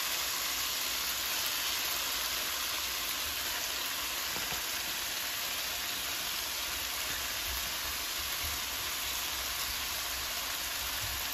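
Chopped spinach sizzling in hot masala in a non-stick wok, a steady frying hiss.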